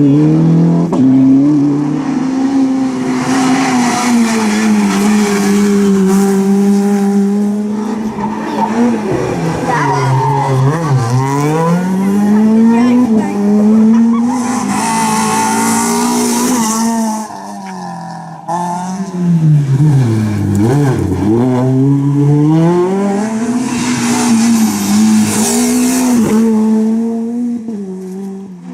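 Rally car engines working hard through a tight hairpin. The revs hold high, sag and climb back twice, and there are bursts of tyre squeal.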